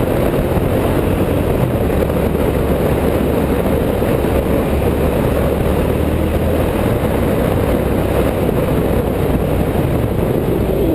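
Steady running noise of a moving vehicle, engine and tyres on the road, continuous and even.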